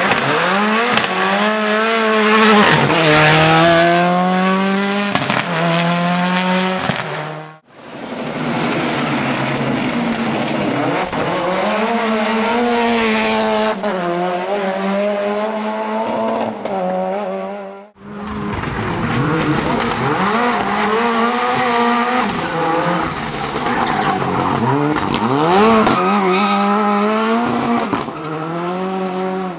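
Turbocharged Toyota Corolla rally car at full effort, its engine revving up and dropping back through repeated gear changes, with tyres squealing and skidding. The sound comes in three separate runs that break off sharply about 7.5 and 18 seconds in.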